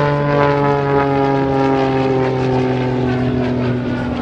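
Pitts S-2 aerobatic biplane's 260-horsepower Lycoming piston engine and propeller running loud and steady, its pitch sliding slowly down.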